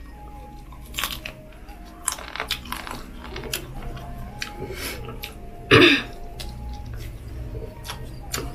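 Someone eating: chewing with small crunches and clicks, over faint background music. About six seconds in, one short loud sound from the eater's throat, falling in pitch.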